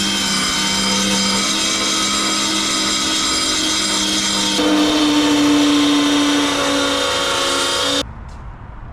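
A power tool running steadily with a high whine, its pitch stepping up about halfway through, then cutting off suddenly near the end.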